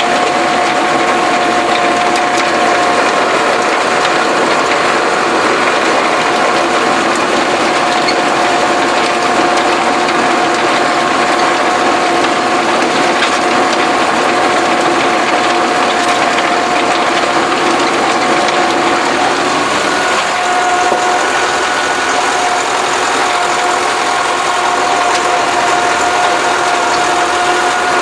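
Massey Ferguson tractor running steadily under load while it works the soil, with a constant high gear whine over the engine and implement noise.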